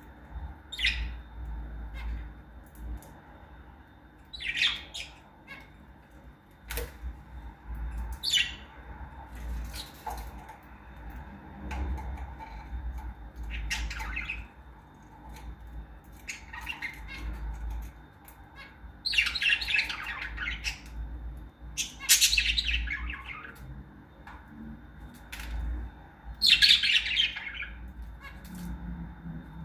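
Small pet parrots, lovebirds, giving short harsh squawks and chirps at irregular intervals, with the longest and loudest calls coming in the last third.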